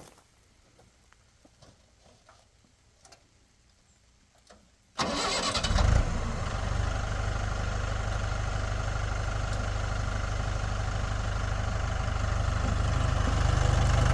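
A vehicle engine cranks and starts about five seconds in, then runs steadily at idle, getting a little louder near the end. Before it starts there are only a few faint clicks.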